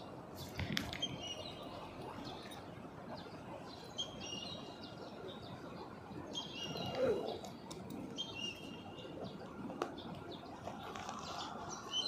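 Small birds chirping in short repeated bursts every couple of seconds, over a steady hum of street noise.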